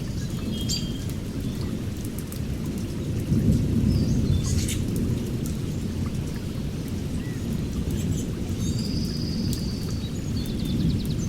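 Birds chirping here and there, with a short run of repeated high notes about nine seconds in, over a steady low rumbling ambience.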